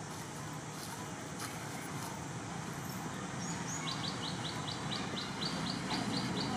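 A bird calling: a rapid run of short, high, evenly repeated notes, about five a second, starting a little under four seconds in, over steady outdoor background noise.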